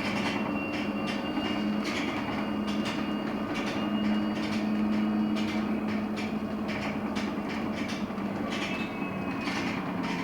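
Cabin sound of a LiAZ-6274 electric bus under way: the steady hum and faint high whine of its electric drive over tyre and road noise, with frequent short rattles.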